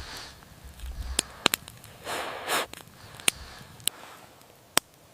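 Soft breaths of air blown over a glowing ember in a tinder nest, the longest about two seconds in. A few sharp crackling snaps come in between, the loudest about a second and a half in and near the end.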